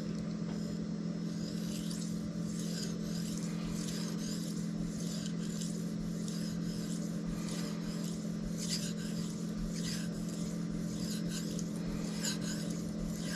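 Cold Steel Mayhem's steel blade stroked back and forth on a Shapton Kuromaku 5000 whetstone, a soft rhythmic rasp at about two strokes a second. This is the fine-grit polishing stage for a mirror edge. A steady low hum runs underneath.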